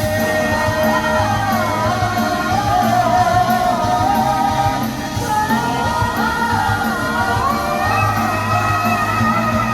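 Live pop-rock band music with a singer holding long notes and sliding between pitches.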